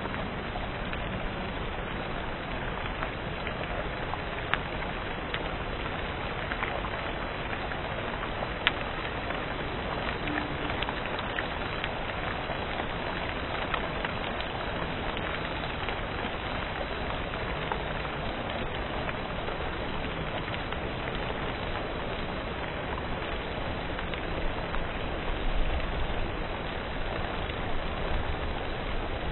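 Heavy hail falling: a dense, steady hiss of hailstones and rain, dotted with sharp clicks of individual stones striking hard surfaces.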